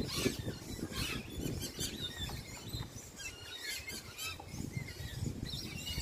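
Birds calling from a flowering tree: scattered short, high, squeaky chirps and squeals, over a low rumbling noise.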